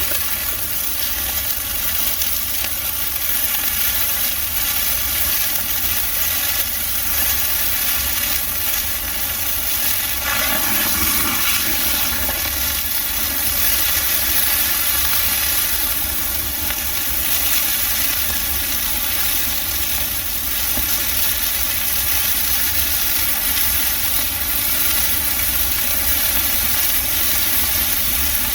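Large bonfire of dry Christmas trees burning, a steady rushing hiss with a deep rumble underneath.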